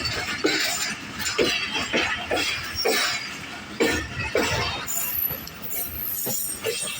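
Passenger train coach rattling in motion: irregular metallic clanks and chinks over a steady running rumble.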